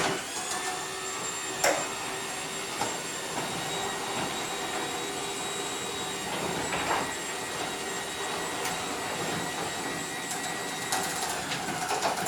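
Overhead Door Odyssey 1000 garage door opener running as it moves the door: a steady motor hum and whine with a few clunks, which stops just at the end.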